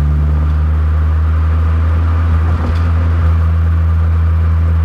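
Honda CR-Z Mugen RZ's 1.5-litre four-cylinder engine heard from inside the cabin, running at a steady pitch while the car cruises, with road noise underneath.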